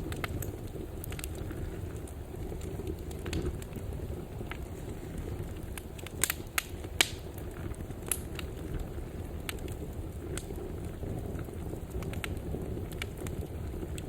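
Fire burning in a fireplace: a steady low rumble with irregular crackles and pops scattered through it. A few sharper, louder pops come about six to seven seconds in.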